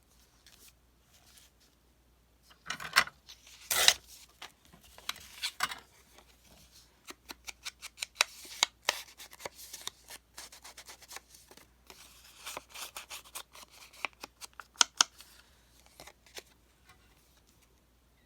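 Paper being cut with scissors: quick runs of small snips with paper rustling, and a couple of louder handling knocks about three and four seconds in.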